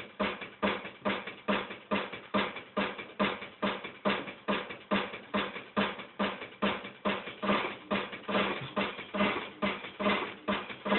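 A steady percussive beat played for a dancing parrot, evenly spaced strokes a little over two a second.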